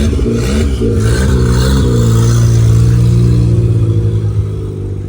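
Opel Corsa B engine revving in short blips, then holding steady revs and fading away near the end.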